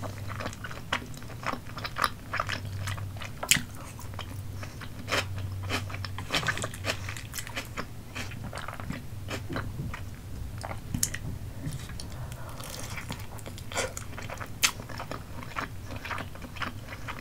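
Close-miked chewing of chewy Korean rice cakes (tteokbokki) in a cheesy sauce, with many sharp smacks and clicks of the mouth.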